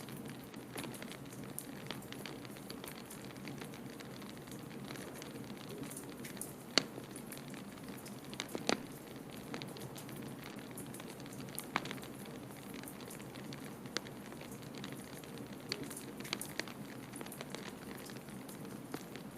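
Wood fire crackling in a fireplace: scattered sharp pops and snaps over a steady low rumble, with the loudest pop about seven seconds in.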